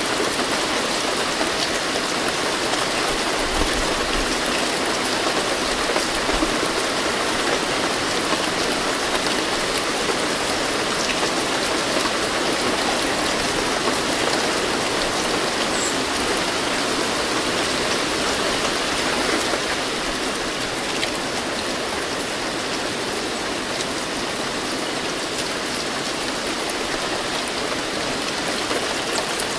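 Steady rain falling: a dense, even hiss with scattered drop ticks, easing slightly about two-thirds of the way through.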